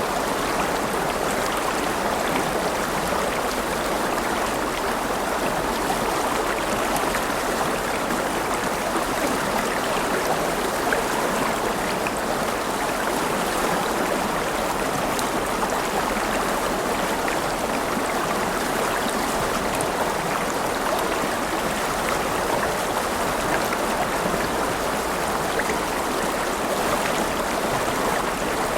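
A river flowing steadily over rocks: continuous rushing and babbling water with small splashes.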